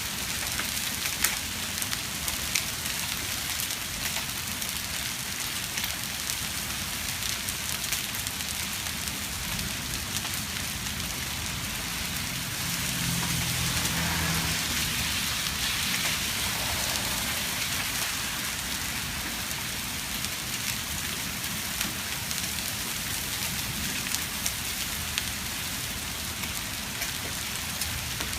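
Steady heavy rain, dotted with sharp ticks of drops striking a hard surface. It swells louder for a few seconds around the middle.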